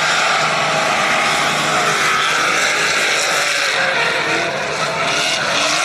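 Drift cars' engines running and revving on the track, the pitch sliding up and down as they accelerate and lift off.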